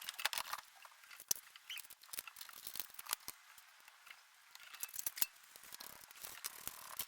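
Irregular light clicks and short scratching sounds, like small objects being handled.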